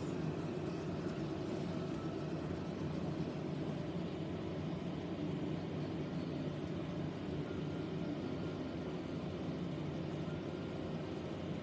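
Steady background hum with a few faint steady tones and no distinct events: room noise.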